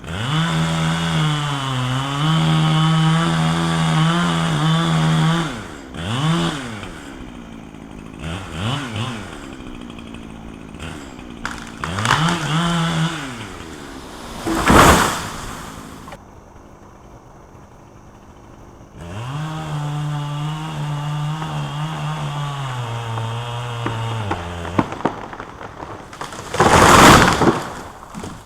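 Gas chainsaw cutting under load, its engine note sagging and holding steady, with short revs between cuts. Twice a loud rushing crash lasting about a second cuts through, the second the loudest.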